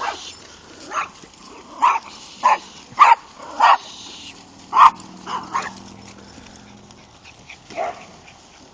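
Dog barking in short, sharp single barks, about ten of them at uneven intervals, bunched in the first five seconds and thinning out toward the end.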